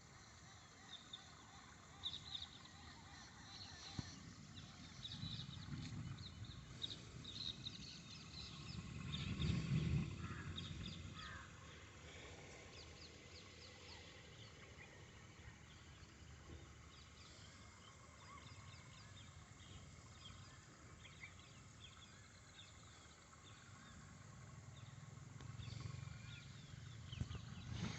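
Distant thunder rumbling low: one swell about ten seconds in, and another building toward the end. Faint high chirps run through the background.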